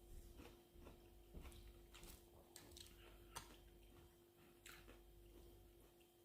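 Near silence: room tone with a steady faint hum and a few faint, scattered clicks.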